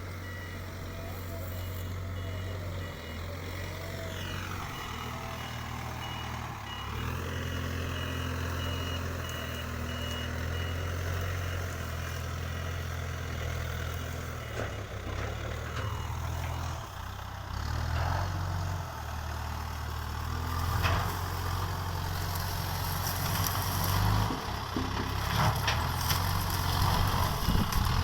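Backhoe loader's diesel engine running with its engine note rising and falling under load, while its reversing alarm beeps over and over. Several sharp knocks come in the last few seconds.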